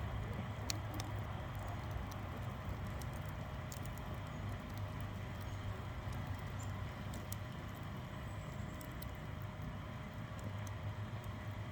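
Wood fire burning in a fire pit, crackling with scattered sharp pops over a steady low rumble.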